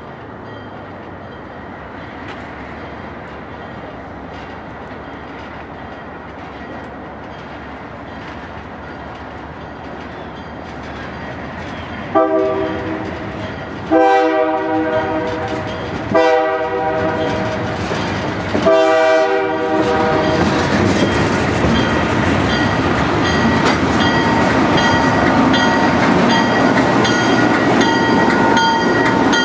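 A train approaching with a rumble that grows steadily, then four chime-horn blasts of one to two seconds each. After the horn the train runs past loudly and steadily, with a few steady high-pitched tones over the running noise.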